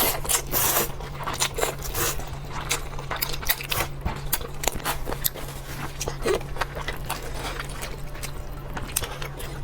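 Close-miked eating: chewing and lip smacking, a dense run of short wet clicks and crunches, over a low steady hum.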